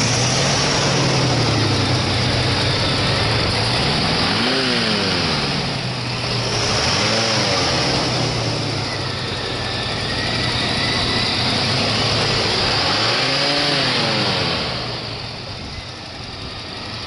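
1979 Cadillac Eldorado's 350 cubic-inch V8 idling with the hood open. The throttle is blipped three times, about four, seven and thirteen seconds in, and each time the revs climb and settle back to idle.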